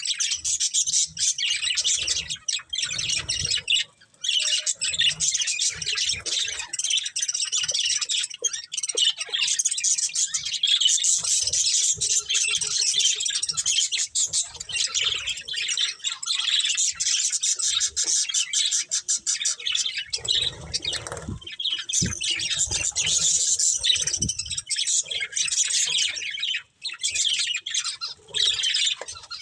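Pet budgerigars chirping and chattering almost without a break, a quick run of high warbling calls with a couple of short pauses. There are some low thumps about two-thirds of the way through.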